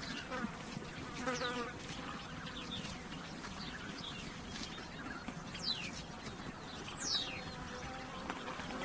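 Flies buzzing steadily, with a couple of short bird chirps falling in pitch about six and seven seconds in.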